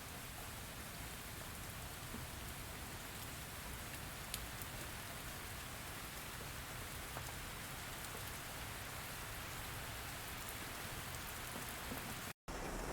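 Steady rain, an even hiss with scattered sharp drop ticks. Near the end it cuts out for an instant and comes back a little louder, with a different texture.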